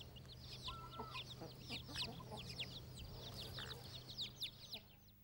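A brood of young chicks peeping: many rapid, overlapping high cheeps that each fall in pitch, fading out near the end.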